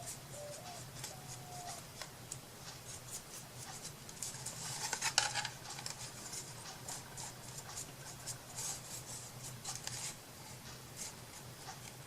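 Light scratchy rubbing and handling of craft materials on a tabletop, a run of short strokes that grows busier and louder about four to five seconds in, over a faint steady hum.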